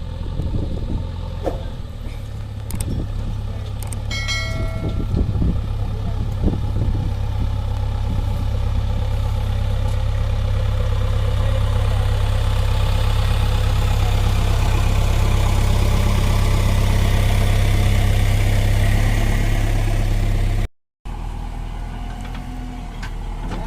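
Tractor engine running steadily, growing louder over about twenty seconds, with a short pitched tone about four seconds in. Near the end the sound cuts out abruptly and a quieter engine sound takes over.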